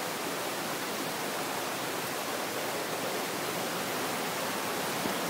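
Fast-flowing stream water rushing over waterfalls, a steady, even rush.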